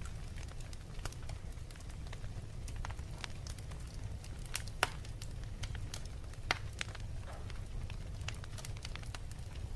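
Wood fire crackling in a fireplace: irregular sharp pops and snaps over a steady low rumble of the flames, with the loudest pops about five and six and a half seconds in.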